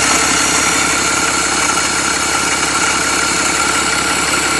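BMW X5 40d's twin-turbo straight-six diesel idling steadily. Its small turbo has failed, oil-starved, and the owner says it is throwing oil into the engine.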